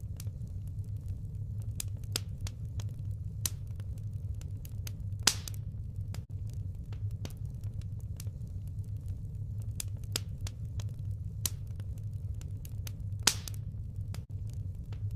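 Firewood burning with a steady low rumble and scattered sharp crackles, with a louder pop about five seconds in and another near the end.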